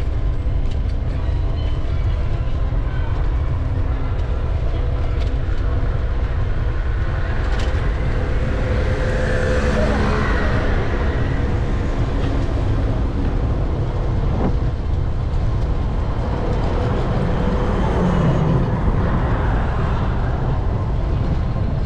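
City traffic heard from a moving bicycle: a steady low rumble, with a vehicle passing about eight seconds in and another near the end, and voices of passers-by.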